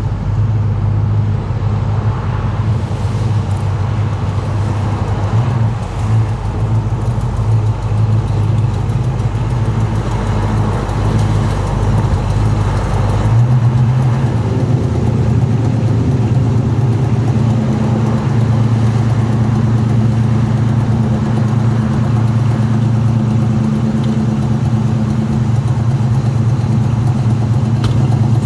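Classic car engine running steadily with a low rumble. About halfway through the engine note changes, becoming steadier and fuller.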